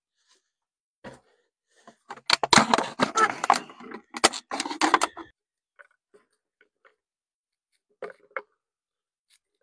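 A plastic bottle being cut open, a dense run of sharp clicks and crackles lasting about three seconds, then a few faint clicks and a short cluster near the end.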